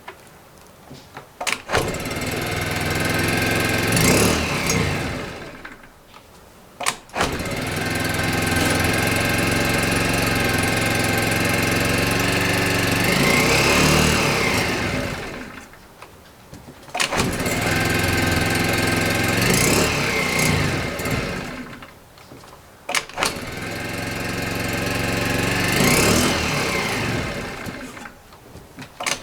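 Suzuki Choinori's small four-stroke single-cylinder scooter engine being started in −10 °C cold after standing unused. It catches with a click, revs up and down for a few seconds, then dies, four times over. This is a hard cold start, with the engine not yet staying running.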